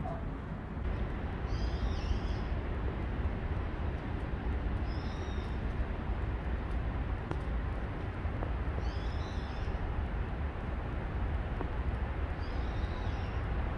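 A steady low rumble throughout, with a bird calling four times, short high chirps a few seconds apart.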